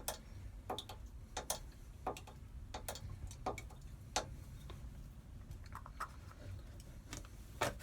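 Hand-operated oil drain pump being worked stroke after stroke, giving a sharp click roughly every three-quarters of a second as it draws engine oil out of the sump.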